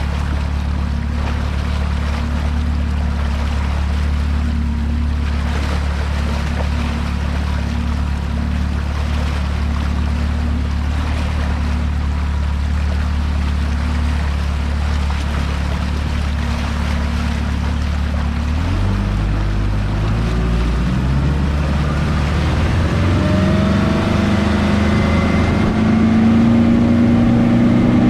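Mercury 150 hp FourStroke outboard, a four-cylinder four-stroke, running steadily under way with water rushing past the hull. About two-thirds of the way through its note changes and then climbs in pitch and gets a little louder as the throttle is opened and the boat speeds up.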